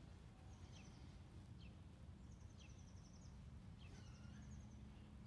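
Faint birds calling: short falling chirps and a few quick, high trilled phrases, over a low steady rumble of wind on the microphone.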